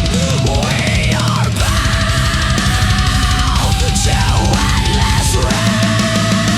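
Heavy metal instrumental passage: distorted guitars and fast, dense drumming, with a lead line gliding up and down in pitch over them.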